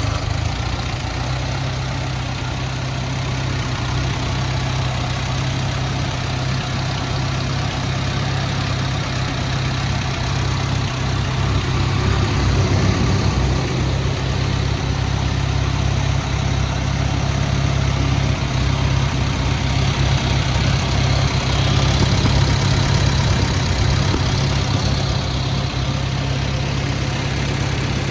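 Allis-Chalmers D15 Series II's 160 cubic-inch four-cylinder gas engine running steadily at idle just after starting, freshly overhauled.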